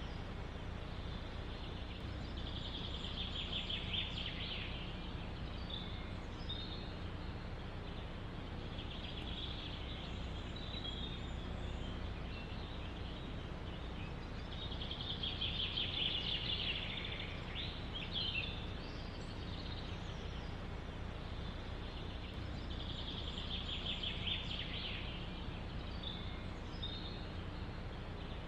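A songbird singing a short, rapid trilled phrase four times, about every six to eight seconds, over a steady low rumble of wind in the forest.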